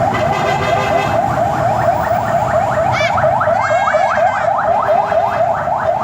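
Fire engine siren in a fast yelp, a rising sweep repeating about three times a second, with the glides of other sirens overlapping near the middle.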